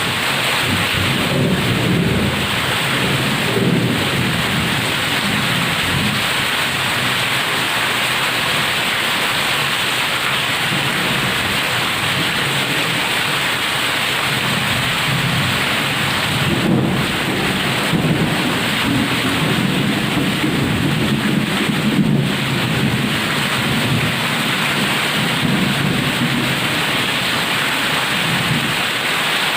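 Heavy rain falling steadily, with low rumbles of thunder: one in the first few seconds and a longer one from about halfway to near the end.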